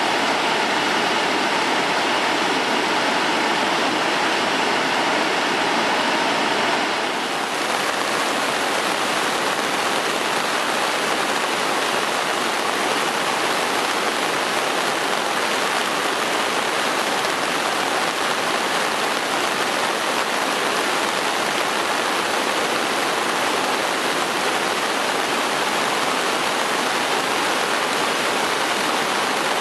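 Sogi Falls on the Sendai River, swollen by days of rain, pouring in a steady rush of water. The sound shifts abruptly about seven seconds in, then runs on evenly.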